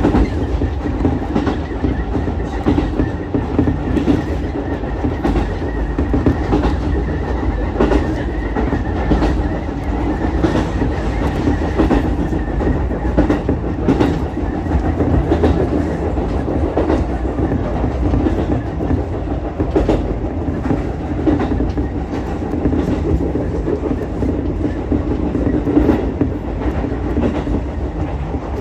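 Ichibata Electric Railway 7000-series electric railcar running along the track: a steady running rumble with the wheels clicking over rail joints at uneven intervals and a faint steady high tone throughout.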